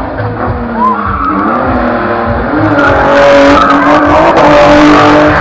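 A car being drifted: the engine revs up and down, and loud tyre squeal joins about halfway through and becomes the loudest sound.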